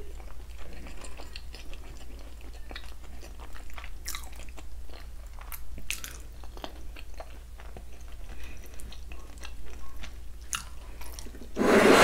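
Close-miked chewing of palm butter and rice, with many small wet mouth clicks. Near the end there is a louder burst of handling noise, about a second long.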